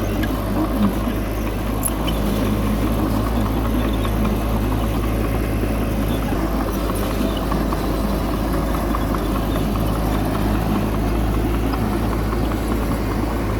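Bulldozer's diesel engine running steadily under load, a low even drone with faint scattered clanks.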